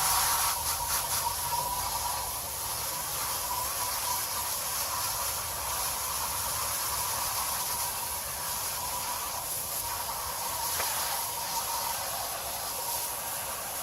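Garden hose spraying water through an air-conditioner condenser coil to flush out clogging cottonwood: a steady hiss.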